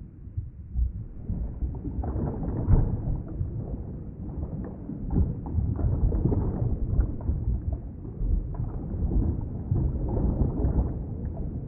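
Underwater ambience: a muffled, low rumble of moving water with faint small crackles through it.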